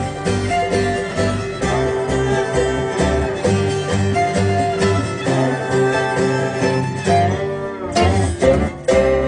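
Acoustic bluegrass band playing live, with picked guitar and banjo over a steady bass rhythm. Near the end the rhythm breaks into a few hard accented strums, and a final chord rings on as the tune ends.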